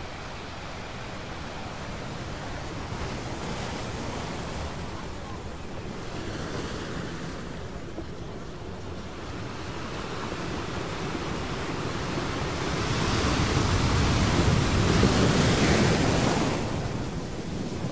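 Recorded ocean surf: a steady rush of waves washing in, swelling slowly to its loudest about three-quarters of the way through, then ebbing near the end.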